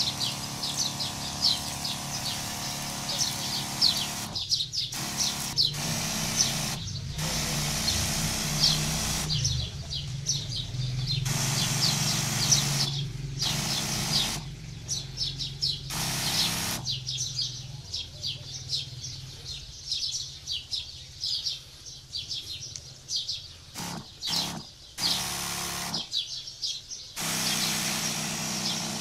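Small birds chirping rapidly and continuously, over a low steady hum from the electric knapsack sprayer's pump running while it mists.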